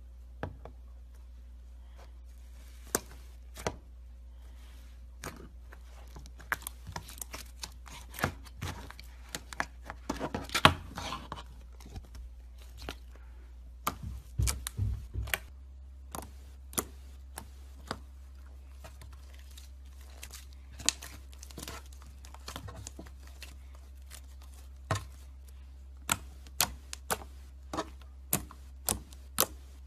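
Slime being handled, with irregular sharp clicks, pops and crackles. They come thickest about ten seconds in, over a low steady hum.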